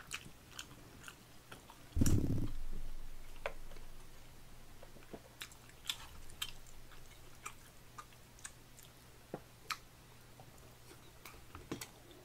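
A person chewing a mouthful of rabokki (rice cakes and ramen noodles), with small clicks of chopsticks picking food from the pot. A single low thump about two seconds in is the loudest sound.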